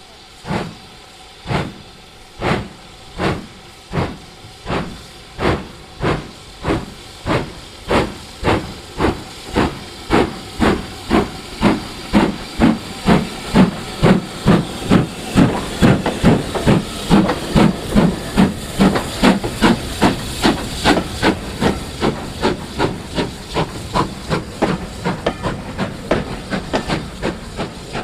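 Steam locomotive exhaust beats as it pulls away, quickening from about one beat a second to about three a second, getting louder toward the middle and easing off slightly near the end.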